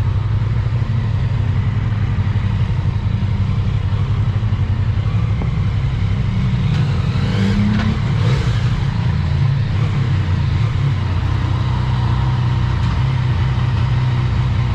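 Yamaha MT-09 SP three-cylinder motorcycle on the move, its engine and a heavy rumble of wind picked up by the GoPro's built-in microphone. A brief change in pitch comes about seven to eight seconds in.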